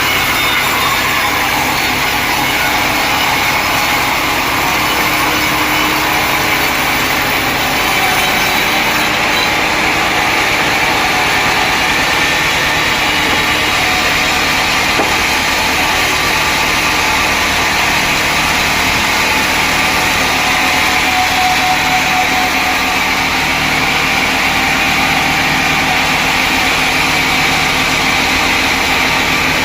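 Sawmill machinery running steadily, a motor's continuous drone with a sustained higher whine.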